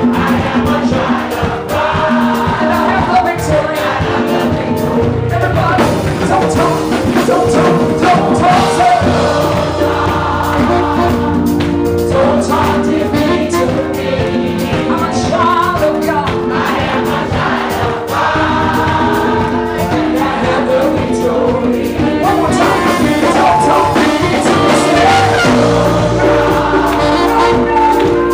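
Gospel choir and congregation singing with a live band: sustained sung notes over steady bass and drums.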